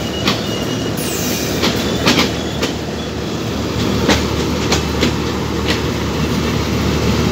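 Passenger train coaches rolling past close by, the wheels clacking over rail joints in irregular clicks, with a faint high squeal of wheel on rail. From about four seconds in, a steady low drone of a diesel locomotive engine joins the rolling noise.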